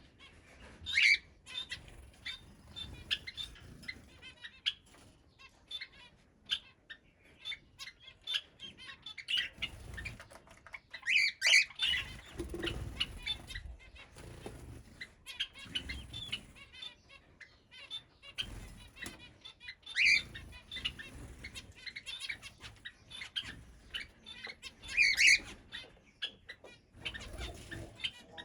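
Aviary birds, a cockatiel among them, chirping constantly, with a few loud shrill calls several seconds apart and the flutter of wings flapping.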